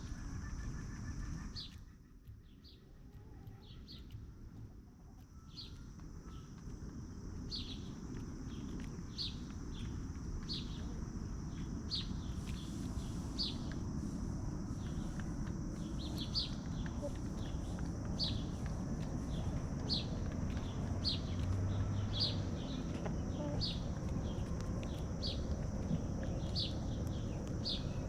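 A bird chirping repeatedly, short high falling calls about once a second, over a steady high-pitched whine and a low outdoor rumble.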